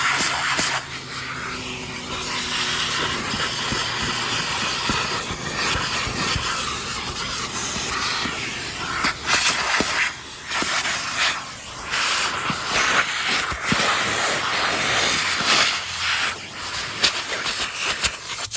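Vacuum cleaner running with a strong suction hiss over a low motor hum, the hiss dipping and swelling in loudness, with scattered sharp clicks.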